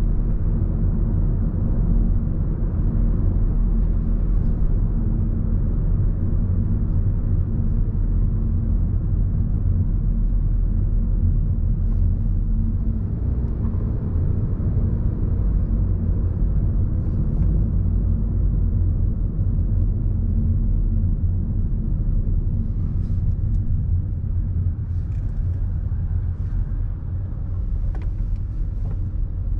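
Steady low rumble of motor vehicles on a city road, with a few faint ticks in the second half.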